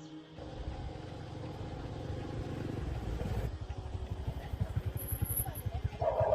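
A motorcycle engine running, starting abruptly about half a second in and settling into a steady pulsing beat, with a short louder noise near the end.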